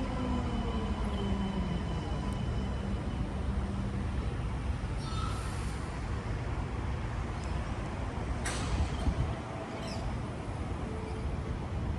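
Sydney Metro train braking into the platform: the whine of its traction motors falls in pitch and fades out in the first few seconds, leaving a low rumble. Short hisses of air come about five seconds in and again about eight and a half and ten seconds in.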